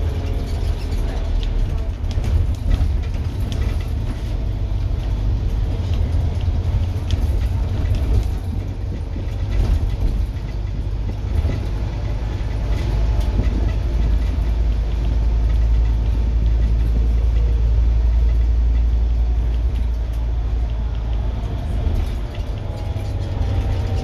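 Scania N230UD double-decker bus's five-cylinder diesel engine running under load: a deep, continuous rumble that grows a little louder about two-thirds of the way through, with a faint whine that rises and falls near the start and again near the end.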